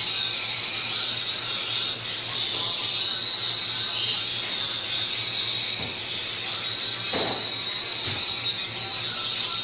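Canaries chirping and trilling together in a continuous high-pitched chorus, over a low steady hum.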